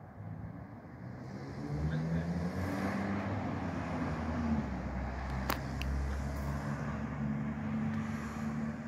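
A car engine running at low speed as the car drives slowly by, its pitch rising and falling a little. Two sharp clicks come about two-thirds of the way through.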